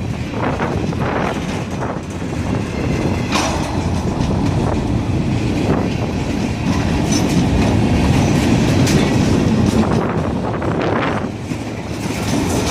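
A train rolling past, its steady rumble broken by scattered clacks of wheels over rail joints.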